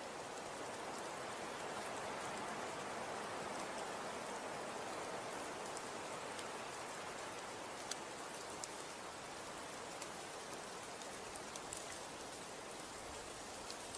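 Falling snow, a steady soft hiss with scattered faint ticks, much like light rain.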